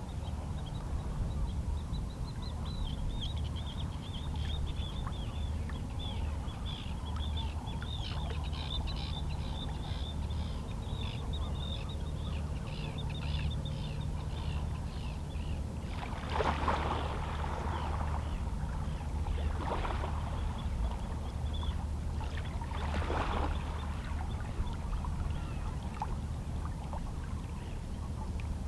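Calm sea with small waves lapping against shoreline rocks over a steady low rumble, three louder splashing washes in the second half. Seabirds call in quick, chattering runs through the first half.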